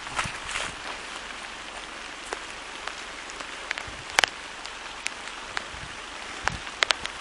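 Rain: a steady hiss with scattered sharp taps of drops, the loudest a quick double tap about four seconds in.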